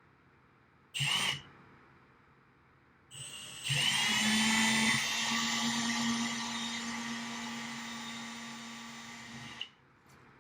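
Power drill boring holes in a rack case's outer rail. A short trigger burst comes about a second in. Then it drills steadily for about six seconds, slowly getting quieter, and stops suddenly near the end.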